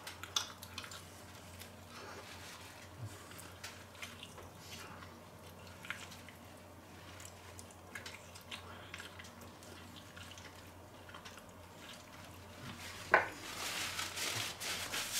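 Quiet eating sounds of a man gnawing meat off a cooked sparerib: small wet mouth clicks and smacks while chewing. Near the end there is a sharper click followed by a couple of seconds of rustling handling.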